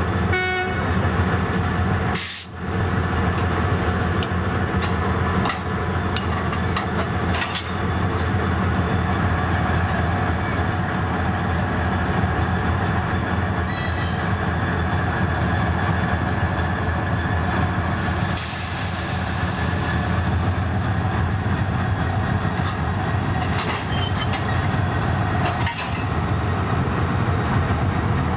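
A train running on the rails: a steady, loud low rumble with faint steady tones over it, broken by a few sudden short breaks.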